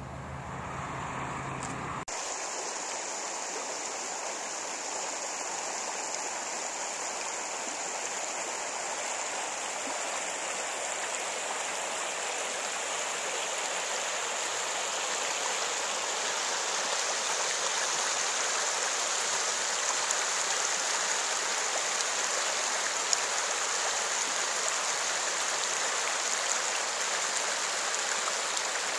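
A low hum, like an engine running, stops abruptly about two seconds in. A steady rushing like running water follows and slowly grows louder.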